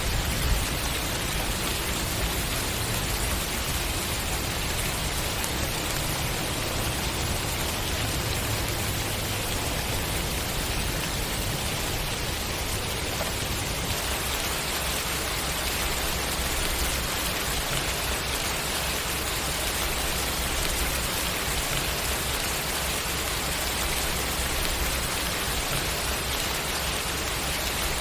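Steady rain falling, an even hiss of many raindrops pattering without a break.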